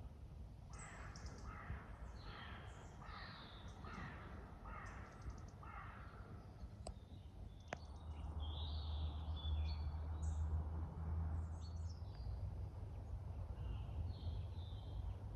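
A bird cawing, a run of about seven calls in quick succession, with smaller birds chirping after it. A low rumble comes in about eight seconds in.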